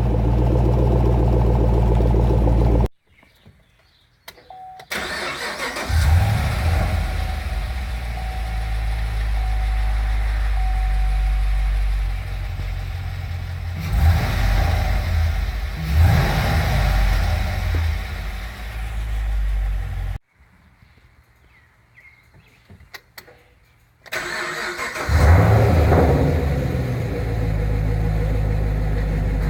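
A 2011 Camaro SS's LS3 6.2-litre V8 starting up and running, with a few short revs. The engine sound stops abruptly twice, leaving near silence for a few seconds; each time it comes back with a start-up surge and settles to a steady idle.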